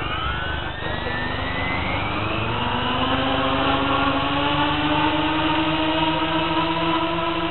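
Electric motors and propellers of a GWS C-130 radio-controlled model aircraft running up. The whine rises in pitch over the first couple of seconds, then settles into a steady, slowly climbing drone with several tones at once.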